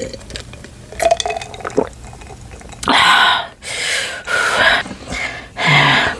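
A person drinking icy sparkling water: small wet sips and swallows at first, then about five loud breathy bursts in the second half.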